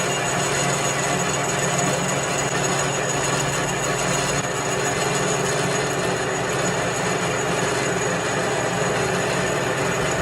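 Workshop machinery running steadily, an even mechanical noise with a constant low hum.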